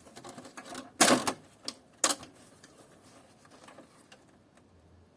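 Clicks and knocks of hand tools and metal and plastic parts being handled while an air conditioner is taken apart. The two loudest knocks come about one and two seconds in, followed by a few small ticks.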